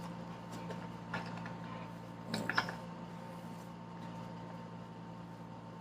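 Steady low electrical hum in a small room, with a few faint rustles and soft taps about a second in and again around two and a half seconds in.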